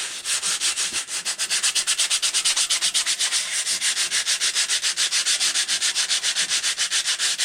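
Hand-sanding a rusty axe head with 120 grit sandpaper: rapid, even back-and-forth scratching strokes, several a second, taking off the rust.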